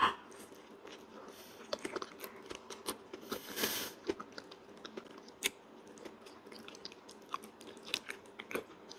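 A person chewing soft, creamy durian flesh close to the microphone: quiet wet mouth sounds with many small scattered clicks as she bites and chews.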